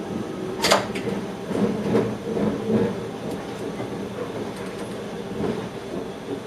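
Electric train heard from inside the driver's cab: a steady hum under a sharp clack a little under a second in and several duller knocks after, typical of wheels running over points and rail joints.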